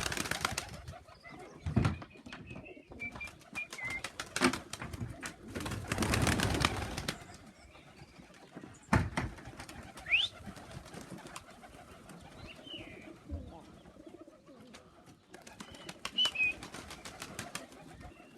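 Homing pigeons cooing and moving about, with several sharp knocks and two louder rustling bursts, one at the start and one about six seconds in.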